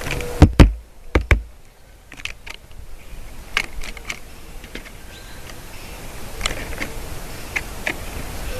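Two pairs of loud, sharp knocks close to the microphone in the first second and a half, then scattered short, high chip notes of small birds.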